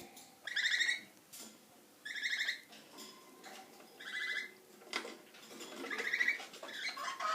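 Pet parrots calling: four short, high, chattering calls, each about half a second long and a second and a half to two seconds apart.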